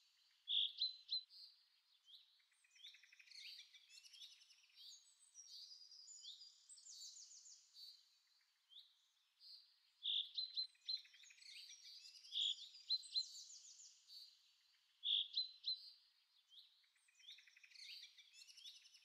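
Birds chirping and singing in short high whistled notes and rapid trills, with louder chirps standing out now and then.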